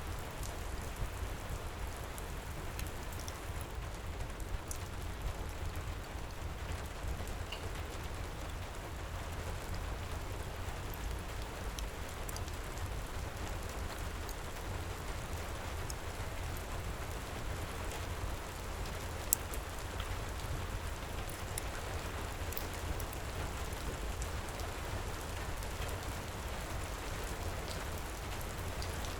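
Steady heavy rain over a low rumble, with scattered small crackles of a wood fire in a fireplace and one sharper pop about two-thirds of the way through.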